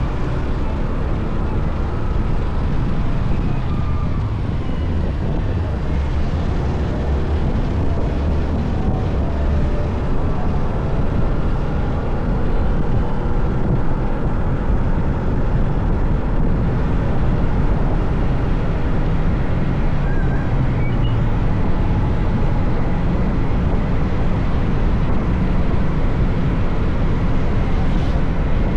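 Motorcycle engine running steadily while riding, with wind and road noise on the bike-mounted microphone.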